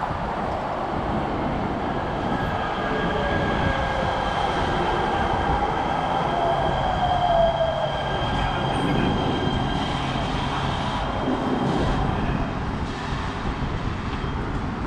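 Expo Line light-rail train running, heard from inside the car: a steady rumble of wheels on the track with high steady whining tones, and a brief squeal about halfway through.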